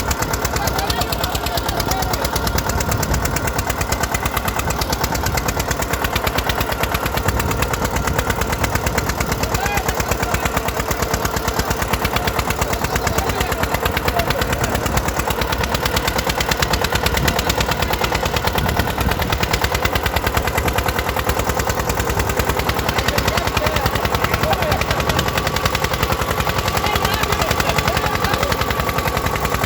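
Eicher tractor's diesel engine running hard under load while pulling a harrow weighted with two men, its exhaust a rapid, steady chatter of firing pulses.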